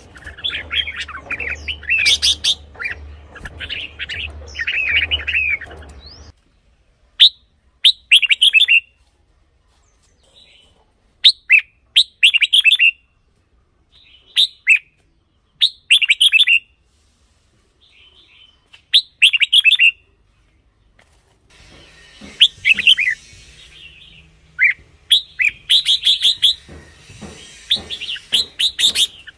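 Red-whiskered bulbul singing short, loud, warbling whistled phrases, repeated every few seconds with quiet gaps between. At the start and again from about 22 seconds in, the song is denser, with more birdsong over a low hum.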